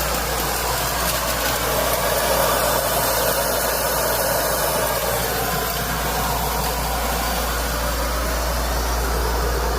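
Small compressed-air vacuum cleaner running, a steady rush of air.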